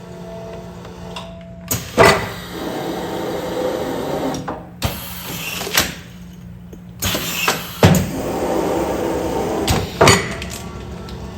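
Commercial food-container sealing machine running a continuous sealing cycle: a steady machine hum with sharp mechanical knocks about every two seconds as the press works, and rustling stretches between them.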